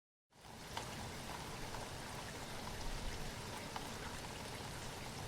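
Steady rain falling, with many small drops ticking on a surface. It cuts in suddenly after a moment of silence at the start.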